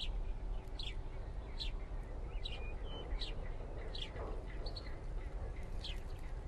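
A small bird chirping over and over: short, high, falling chirps at a little more than one a second. A steady low rumble runs underneath.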